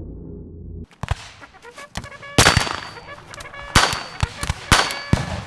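Low background music cuts off about a second in, followed by loud, sharp bangs about a second apart, three strong ones and some lighter ones, several with a brief high ringing tail.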